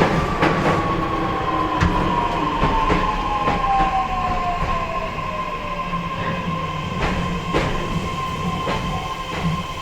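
Onboard running sound of a JR East E131 series 1000 electric train in a motor car. The traction motor whine falls steadily in pitch over about six seconds as the train slows, above a steady higher tone, with wheel-on-rail rumble and occasional clicks over the rail joints.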